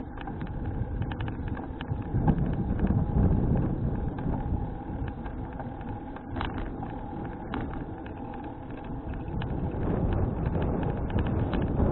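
Wind buffeting an action camera's microphone during a ride on a folding bicycle: a fluctuating low rumble with many scattered small clicks and rattles from the moving bike.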